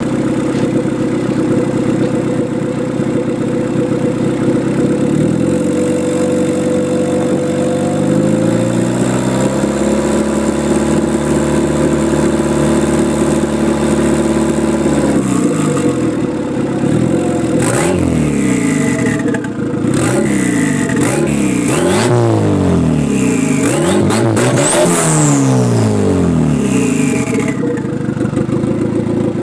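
Turbocharged Toyota 4K-C 1.3-litre four-cylinder engine in a KE70 Corolla idling, then revved and held at raised revs for several seconds, then blipped about five times in quick succession. A turbo whistle rises and falls with the revs.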